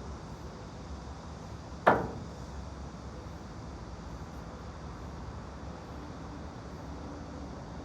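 Steady low background rumble and hiss of room ambience, with one sharp knock about two seconds in that dies away quickly.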